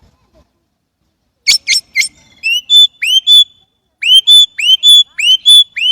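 Chinese blackbird singing. After a short pause it gives three sharp, clipped notes, then a run of repeated rising whistled notes, about two a second.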